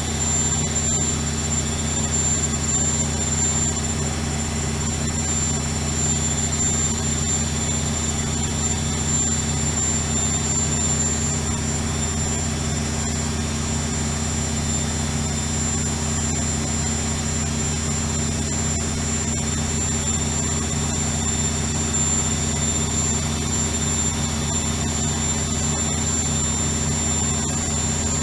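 Bauknecht WAK 5750 G front-loading washing machine spinning at a steady speed: an even motor hum with a thin high whine from its brushed motor, which runs on a new pair of carbon brushes.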